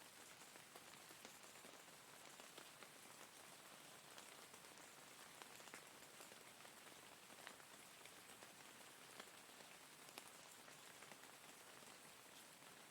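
Faint, steady rain: an even hiss with many single drops ticking sharply through it.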